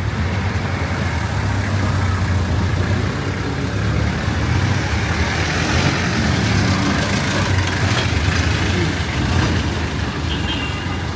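Street traffic: a motor vehicle's engine running close by with a steady low hum, and road noise that swells and is loudest through the middle.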